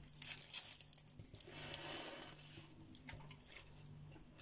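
Faint sounds of a person biting into and chewing a thick foil-wrapped kebab roll: soft crunching and small clicks with light crinkling, a little louder around the middle.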